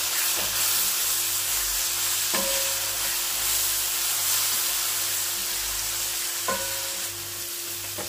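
Chopped onion, tomato and spices sizzling in hot oil in a pan while being stirred with a spatula. The spatula knocks against the pan about four times, each knock with a short ring, over a faint steady hum.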